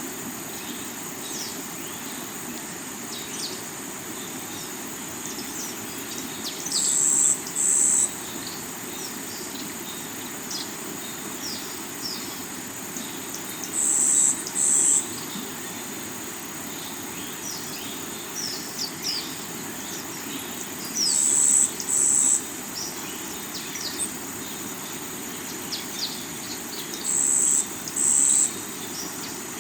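River water running steadily over rocks, with an insect call of two loud, high buzzes repeating about every seven seconds and many quick bird chirps scattered through.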